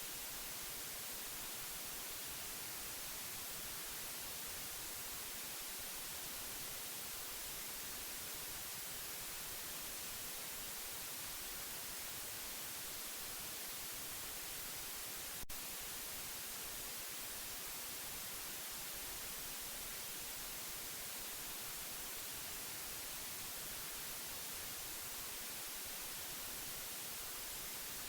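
Steady white noise: an even hiss, brightest in the high end, with no change in level. One brief click a little past halfway through.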